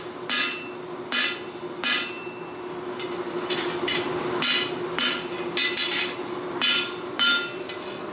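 Hand hammer striking a hot steel cutlass blade on an anvil: about a dozen ringing blows at an uneven pace, with a pause of about a second a couple of seconds in, over a steady low hum.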